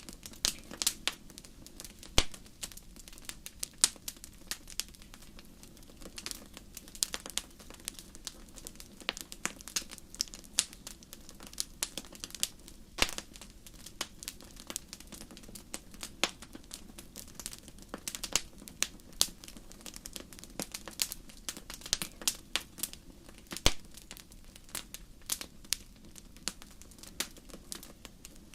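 Wood fire burning in a fireplace, crackling with many irregular sharp pops over a low steady hiss of flame.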